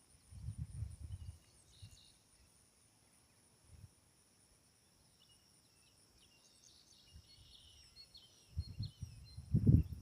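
Songbirds chirping among a steady high insect trill. Short low rumbles on the microphone come about half a second in, and again near the end, louder.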